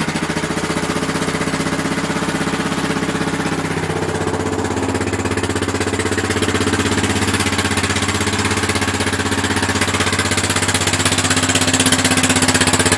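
1997 Honda Foreman 400 ATV's single-cylinder four-stroke engine idling just after a cold start at 28°F, on choke. The idle speed shifts slightly about four seconds in and grows a little louder near the end.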